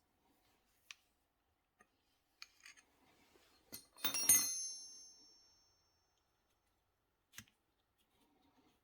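A metal object clatters against something hard about four seconds in and rings briefly. Scattered light clicks and taps come before and after it, with another sharp click near the end.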